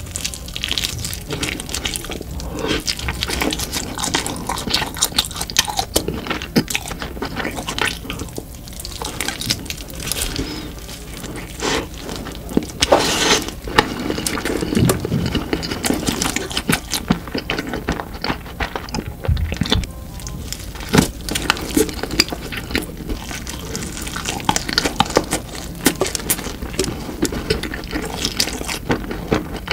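Close-miked wet eating: a constant run of mouth smacks, squelches and small clicks as food is chewed and slurped.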